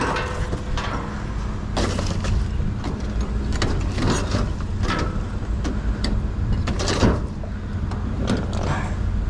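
Junk being rummaged through in a dumpster: repeated knocks, clatters and rustles, the sharpest about seven seconds in, over a steady low hum.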